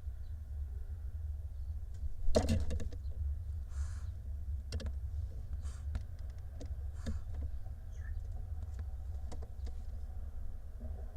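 Barn owl owlets shuffling in a wooden nest box: scattered clicks and scrapes over a steady low hum, with a loud cluster of scrapes about two seconds in and a short hiss a second or so later.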